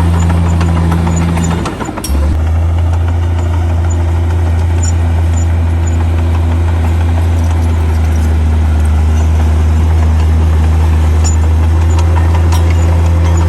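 Heavy earthmoving machine's diesel engine running steadily with a deep low drone. About two seconds in, it dips briefly and then carries on at a slightly different pitch.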